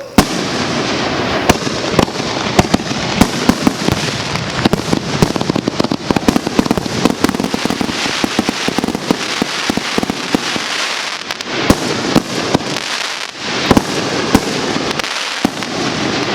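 Consumer (Class C) fireworks going off in a rapid barrage: many sharp bangs over a continuous crackle, with a loud bang just after the start.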